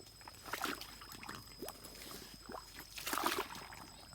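Water splashing and sloshing in short, irregular bursts, with the loudest splash about three seconds in.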